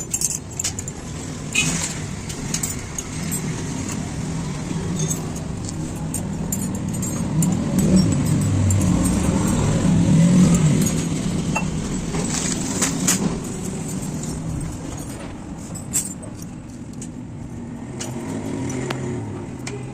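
A motor vehicle's engine running, swelling louder about halfway through and then fading, with scattered metallic clinks and taps over it.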